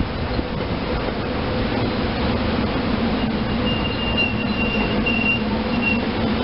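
SEPTA Silverliner IV electric multiple-unit train rolling through the station with a steady rumble of wheels on rail and a low hum. From about three seconds in, a thin high wheel squeal comes and goes for a few seconds as the cars run through the curve.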